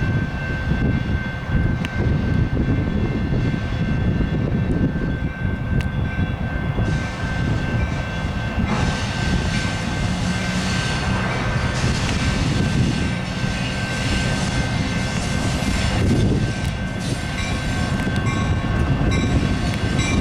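Freight train led by two Canadian National diesel locomotives running past: a steady, loud low rumble of engines and rolling railcars, with a brighter hiss of wheels on rail building up partway through.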